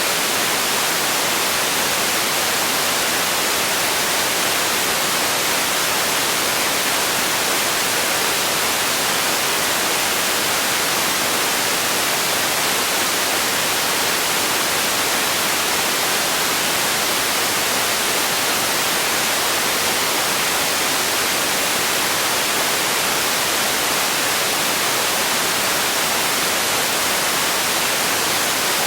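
Steady white noise: an even, unbroken hiss, heaviest in the upper range and thin in the bass.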